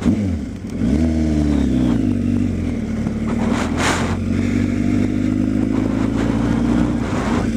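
Kawasaki ZX-10R inline-four engine revving up as the bike pulls away, then running at a nearly steady pitch under way until the revs drop near the end. A brief rush of noise comes about halfway through.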